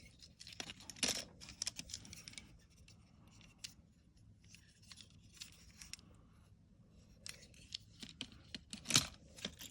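Light clicks, taps and scrapes of small die-cast toy cars being handled and moved about in their carrying case, in flurries about a second in and again near the end, with the sharpest click at about nine seconds.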